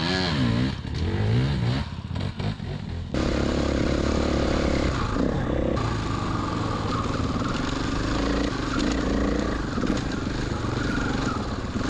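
Dirt bike engine riding over uneven ground, its pitch swinging up and down with the throttle for the first few seconds, then changing abruptly about three seconds in to a steadier running note.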